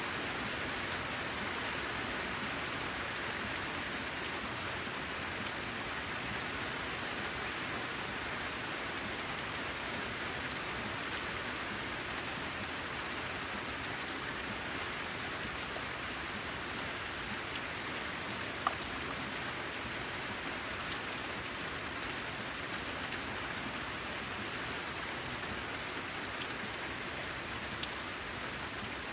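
Steady rain falling, an even hiss with scattered drops ticking, and one sharper drop about 18 seconds in.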